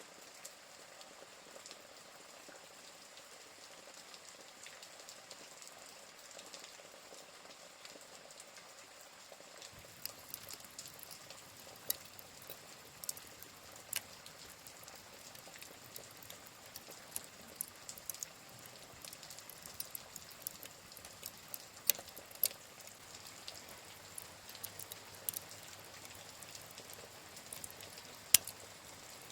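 Steady rain hiss with a wood fire crackling. About a third of the way in the fire's irregular sharp pops join in, and a few louder pops come later on.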